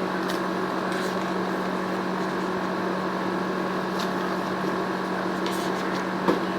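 Steady mechanical hum with a few constant tones underneath, with a few faint light clicks and a sharper tap shortly before the end.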